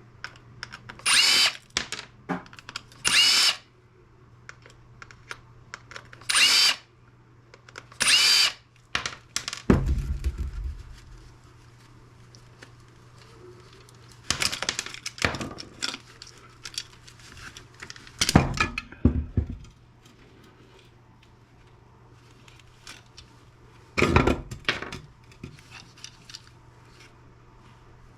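Power drill run in short bursts, about seven times, each a brief high whine, with a heavier thud about ten seconds in and small clicks of parts being handled between bursts.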